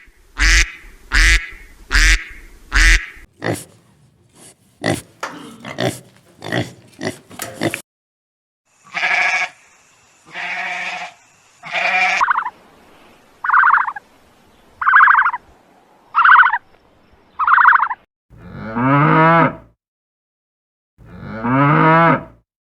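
A series of different farm animal calls played back to back: short grunting calls, then clicks and a string of short repeated calls, ending with two long calls that rise in pitch.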